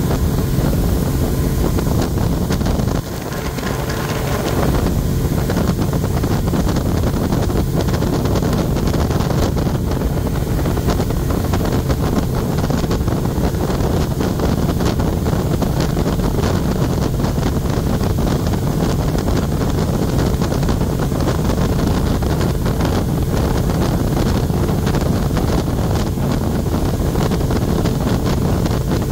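Tour boat's engine running steadily under way, with wind buffeting the microphone. The noise drops briefly about three seconds in.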